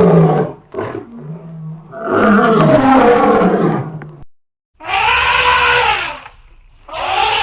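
Animal calls: a series of loud, long calls with a clear pitch, each lasting one to two seconds, with short breaks between them.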